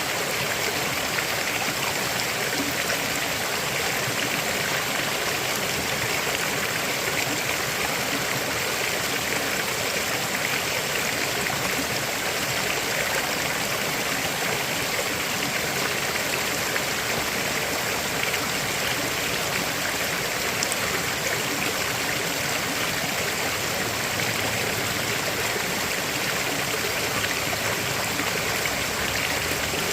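River water flowing over rocks: a steady rushing and babbling that holds even throughout.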